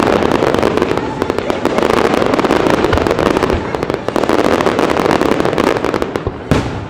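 Fireworks display going off overhead: a dense, continuous crackling of many bursting shells, with one sharper bang near the end.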